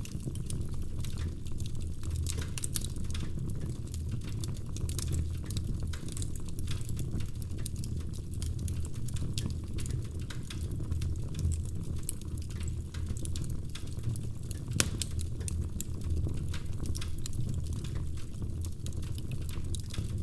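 Wood fire crackling in a fireplace: a steady low rumble with frequent small pops and snaps, and one louder pop about fifteen seconds in.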